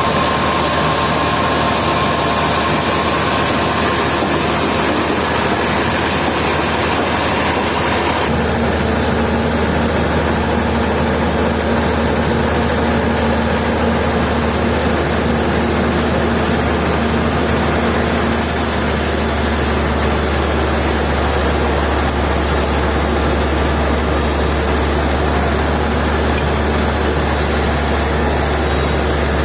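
Sawmill machinery running loud and steady, a dense mechanical noise with a low hum; its tone shifts abruptly about eight seconds in and again near nineteen seconds.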